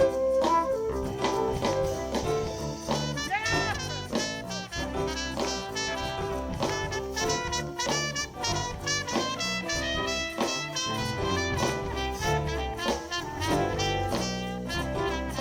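Live soul band playing an instrumental passage between sung verses, with several instruments over a steady drum beat and a note bending in pitch about three seconds in.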